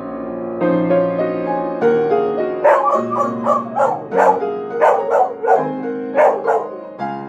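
Solo piano playing while a dog sings along: a run of about ten short, pitch-bending howls, starting a few seconds in and stopping shortly before the end.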